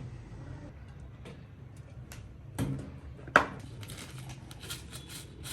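Kitchen items and ingredient containers being handled: scattered light clicks, a dull knock and then a sharp knock about three and a half seconds in, followed by a run of quick ticks.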